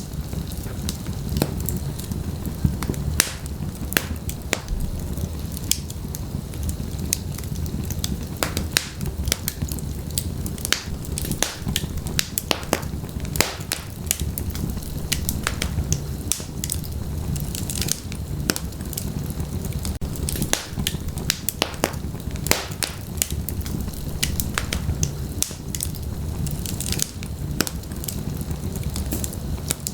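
Wood fire burning in a fireplace, crackling and popping with many sharp irregular snaps over a steady low rumble of the flames.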